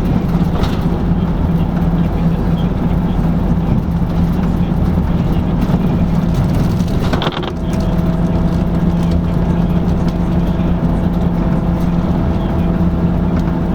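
Inside a moving LiAZ-5250 bus: steady engine drone and road noise, with a short dip in the engine note about seven seconds in.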